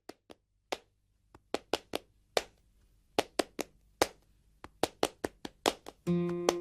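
Percussion opening a pop song: sharp, unevenly spaced claps that come more quickly as they go on. Near the end a plucked-string chord comes in.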